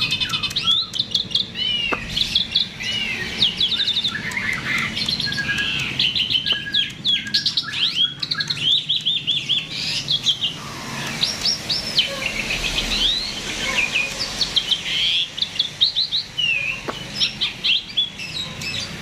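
A jalak (starling) singing energetically in a rapid, varied stream of chirps and rising and falling whistles. Bird keepers play this kind of song as a lure to get other songbirds singing.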